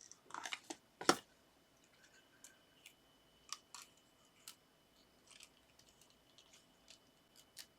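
Paper and card being handled: a few scattered soft clicks and taps, the sharpest about a second in.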